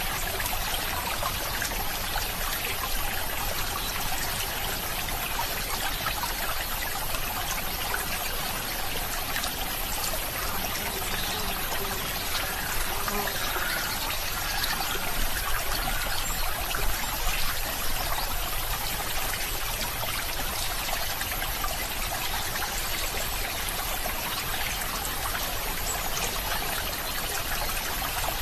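Running water from a stream, trickling steadily without a break.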